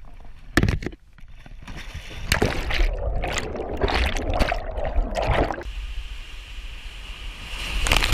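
Water splashing and sloshing, with a sharp knock about half a second in and a long stretch of heavy, irregular splashing through the middle.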